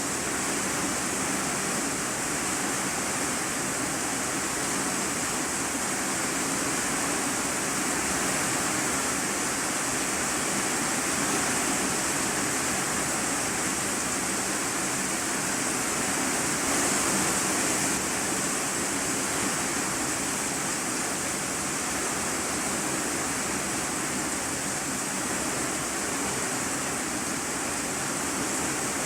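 Heavy rain falling steadily on an iron-sheet roof, heard from the room beneath as an even, unbroken hiss.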